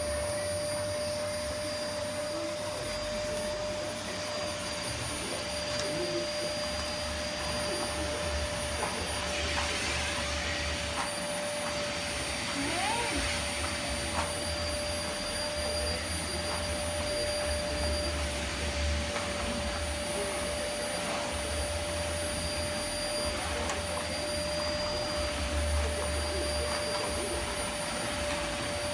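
Vacuum cleaner running steadily, a constant whine over a rushing hiss, with its low rumble swelling and easing as it is moved about.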